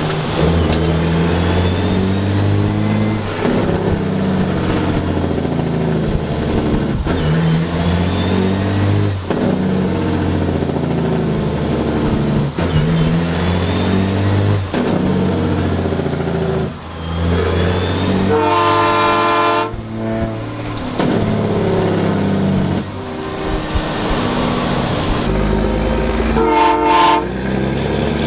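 Semi truck's diesel engine pulling away and climbing through the gears, its pitch rising and dropping back with each shift every couple of seconds. A truck air horn blasts for about a second and a half about two-thirds in, then briefly again near the end.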